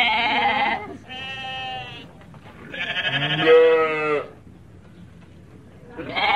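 Sheep bleating: a wavering bleat at the start, a second about a second in, a longer, louder one about three seconds in, and another beginning near the end.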